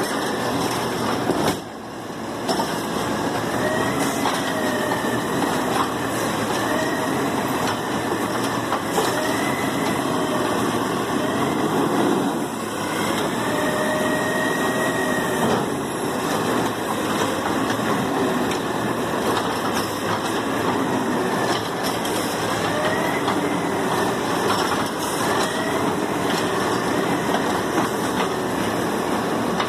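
Garbage truck working: a loud steady mechanical din with squeals of metal every few seconds, one of them longer about halfway through.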